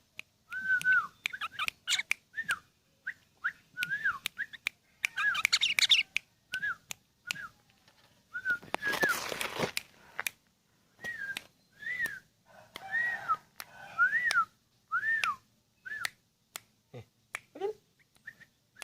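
Sooty-headed bulbul (kutilang) singing: a run of short, arched, fluted whistles, with scattered sharp clicks. There are two brief noisy bursts, about five and nine seconds in.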